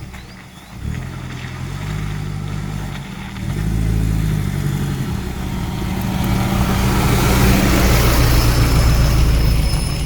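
Car engine running under way, its pitch stepping up and down a few times as the revs change, getting louder through the clip. A rushing noise builds up over it in the last few seconds.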